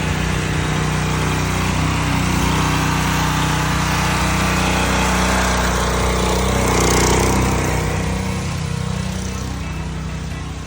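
Small gasoline engine of a pressure washer running steadily, its level easing off near the end.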